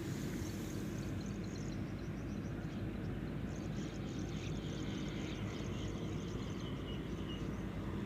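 Steady low rumble with small birds chirping rapidly over it in two bouts, the second, from about three and a half seconds in, the longer.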